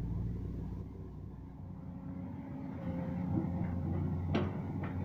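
Heavy diesel engine running steadily, getting louder about three seconds in. A sharp knock comes near the end, with a second, fainter one just after it.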